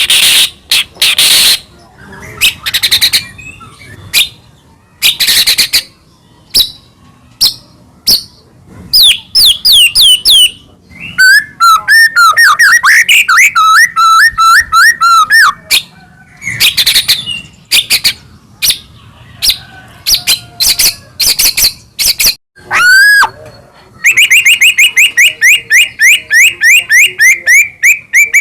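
White-rumped shama singing a loud, varied song: whistled notes and slurred phrases with short pauses, a warbling run about eleven seconds in, and a fast, even trill of repeated notes near the end.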